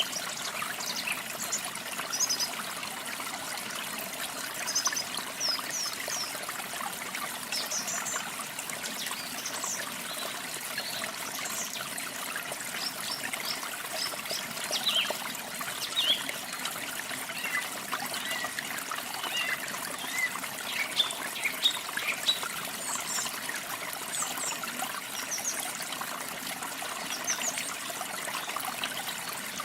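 Water trickling steadily, with small birds chirping on and off over it.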